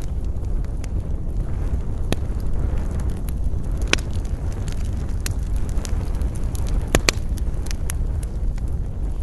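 Campfire burning: wood crackling with scattered sharp pops, loudest about four seconds in and twice close together about seven seconds in, over a steady low rumble of wind.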